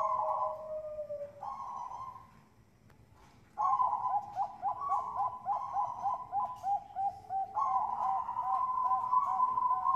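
Zebra doves (Thai-bred perkutut bangkok) cooing. After a short pause about three seconds in, the cooing resumes as a fast run of short repeated rolling notes, about five a second, followed by longer held coos.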